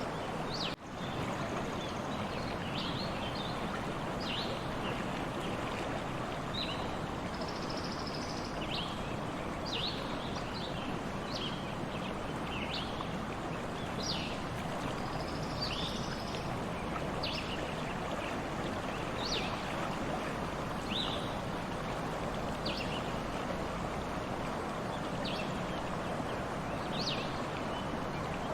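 A stream running steadily, with small birds giving short, high chirps throughout. The sound briefly dips about a second in.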